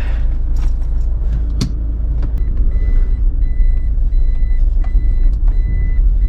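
A car running, heard from inside the cabin as a steady low rumble, with a couple of sharp knocks early on. About three seconds in, a repeated high electronic beep starts, sounding in short even pulses like a car's warning chime.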